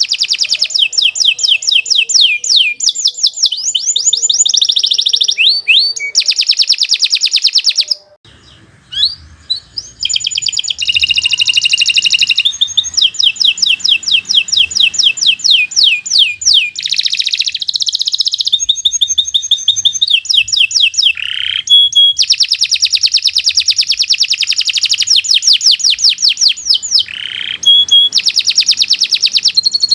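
Domestic canary singing a long, continuous song of fast rolling trills, broken by a short pause about eight seconds in. A few lower, falling whistled notes are mixed in later.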